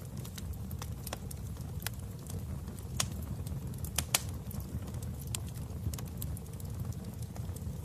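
Wood fire in a fireplace crackling: a low steady rumble of flames with irregular sharp pops, the loudest about three and four seconds in.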